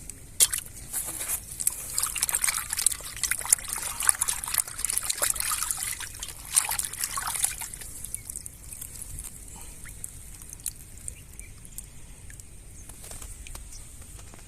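Water splashing and trickling, busy for the first half and then thinning out to a fainter trickle with scattered drips.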